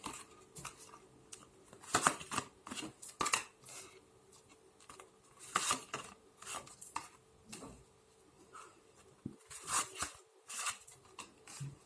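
Tarot cards being handled: shuffled and slapped down on the table, a run of irregular short clicks and flicks.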